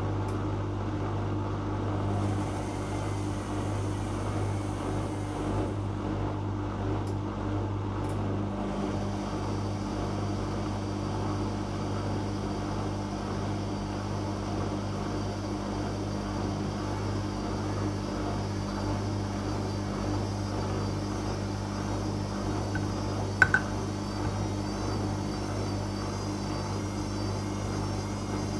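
Whirlpool washing machine running in the phase just before its spin, giving off a steady low hum. There is one sharp click about 23 seconds in.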